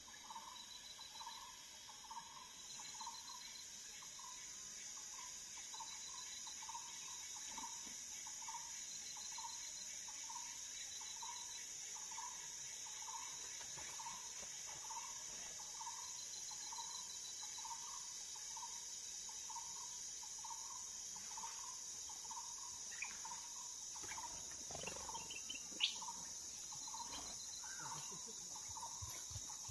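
Forest insects keep up a steady high-pitched drone. Over it a low call note repeats about twice a second, and short higher trills come and go. Near the end there are a few clicks and knocks, one of them sharp.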